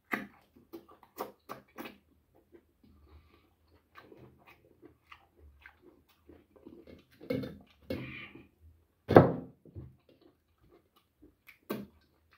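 Close-up eating sounds of a man chewing boiled goat-head meat: scattered lip smacks and wet chewing clicks, with a few louder knocks from handling the food and plate, the loudest about nine seconds in.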